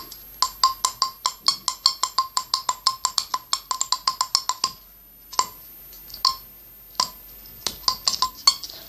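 Homemade remote control built from computer sockets, clicked rapidly: sharp clicks with a short ringing tone, like a small musical instrument. About six clicks a second for roughly four and a half seconds, then a pause and a few scattered single clicks.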